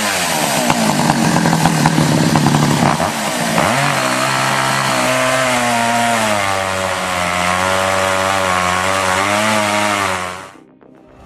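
Poulan two-stroke chainsaw running hard, its pitch dipping twice as it takes load, then holding steady. It cuts off suddenly near the end.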